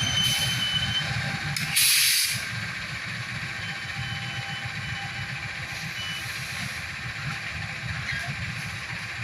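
Heavy vehicle rumbling steadily, with a thin high squeal in the first second and a short, loud hiss of released air, like an air brake, about two seconds in.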